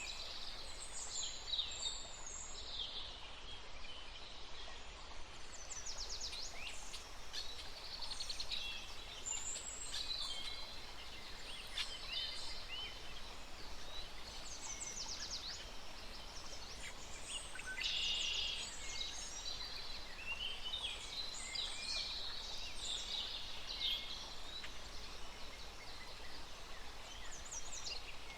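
Many birds chirping and calling together: a steady run of short, high, overlapping chirps and quick sweeping notes.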